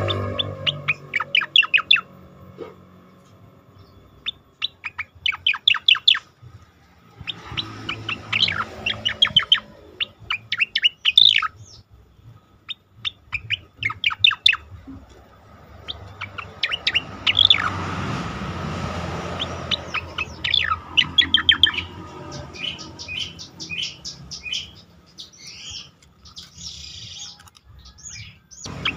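Cica koreng (striated grassbird) singing: phrases of rapid, sweeping chirps about two seconds long, repeated with short pauses between, over a faint low hum.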